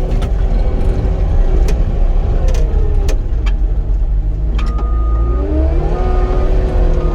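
Cat 259D compact track loader at work: its diesel engine runs steadily and its hydraulics whine, the pitch sweeping up and down several times as it grades. Scattered clicks and knocks come through, and a steady high beep sounds briefly a few times in the second half.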